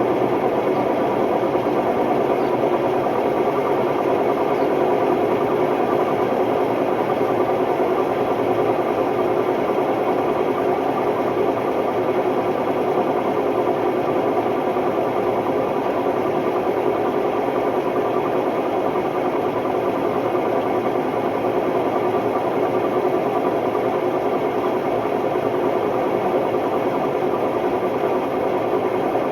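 Hotpoint Ultima WMD960 washing machine spinning at a steady speed, extremely noisy, with a constant hum over a rough, even noise: the sign of bad drum bearings.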